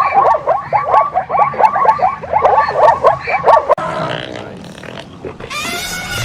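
Animal calls: a fast series of short, repeated calls, about four or five a second, for the first three and a half seconds, then one longer call with many overtones near the end.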